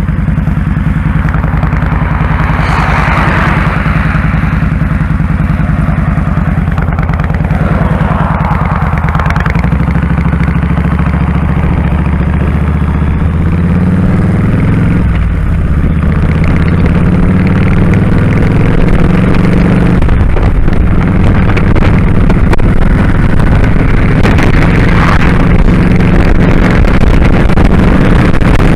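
Kawasaki Drifter 1500 V-twin motorcycle engine running under way, with a steady low beat whose pitch shifts about halfway through. Swells of rushing noise come and go over it.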